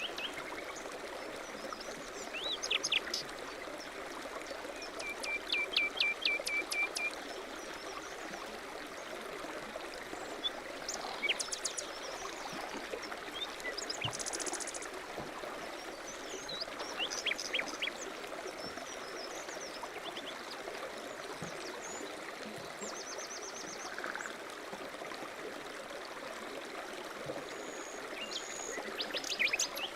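A stream running steadily, with small birds chirping and trilling now and then over it, including a run of quick chirps about five to seven seconds in.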